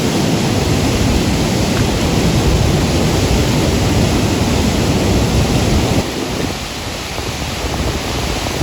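River rapids: a steady loud rush of whitewater, a little quieter from about six seconds in.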